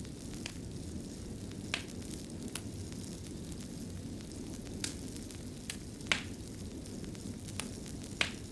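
Wood fire crackling in a stone fireplace: a steady low rumble of flames with about seven sharp pops at uneven intervals, the loudest about six seconds in.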